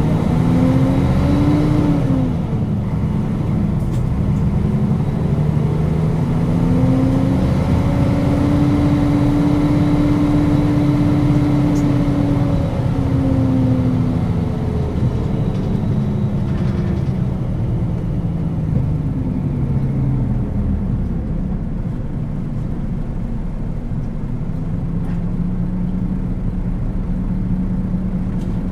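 Nissan Diesel KL-UA452KAN city bus's diesel engine under way. Its pitch climbs and drops back about two seconds in, rises and falls slowly through the middle as the bus speeds up and eases off, and settles to a steady hum near the end.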